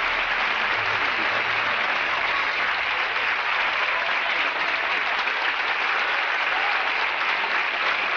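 Audience clapping, a dense steady applause that holds at the same level throughout.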